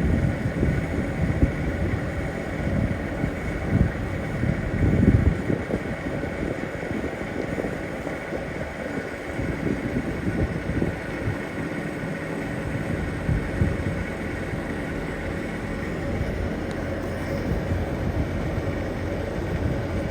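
Steady rumble of a moving train, with wind buffeting the microphone in gusts, strongest in the first few seconds.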